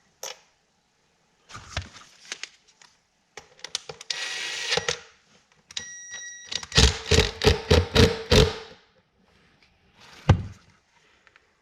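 Vent window parts being handled and knocked while a rubber seal is pressed into place: scattered clicks, a brief scrape, then a quick run of about nine sharp taps, about five a second, and one last knock near the end.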